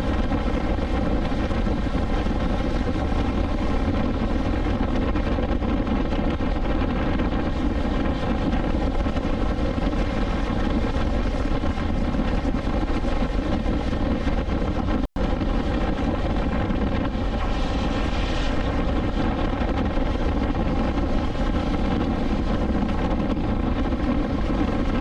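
BMW S1000XR's inline-four engine running at a steady speed while riding, with road and wind noise. The sound cuts out for an instant about halfway through.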